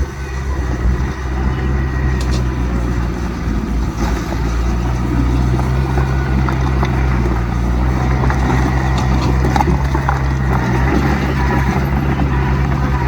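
Heavy diesel engine of earthmoving machinery running steadily at a low, even pitch, with a few faint clicks and clatters over it.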